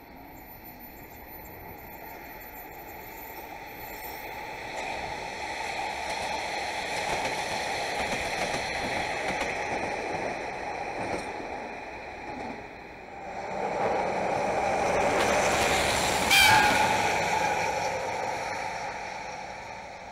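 Rail traffic passing in a yard: train running noise swells and eases, then a JNR DE10 diesel locomotive running light passes, growing louder from about two-thirds of the way in. Near its loudest point there is a brief high-pitched sound, and then it fades away.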